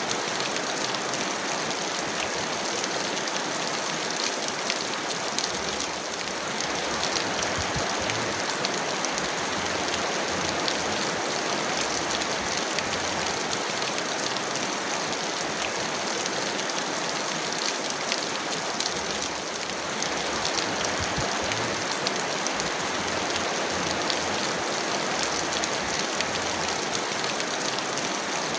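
Heavy rain falling steadily: a dense, even hiss flecked with the fine ticks of individual drops.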